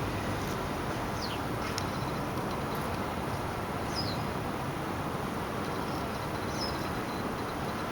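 A small bird's short, high, thin chirps, about four of them, each falling quickly in pitch and spaced irregularly, over a steady low background noise.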